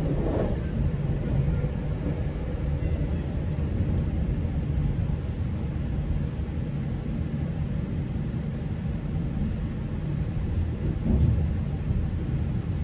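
Steady low rumble of a GO Transit bilevel commuter train running along the track, heard from inside a coach. The rumble swells briefly about eleven seconds in.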